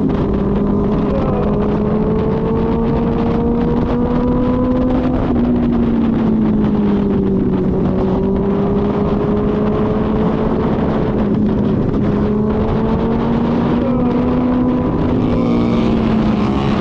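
Kawasaki ZX-6R's inline-four engine running at steady riding revs, its pitch easing down about five seconds in, creeping back up, and dipping again near the end. Wind rushes over the microphone throughout.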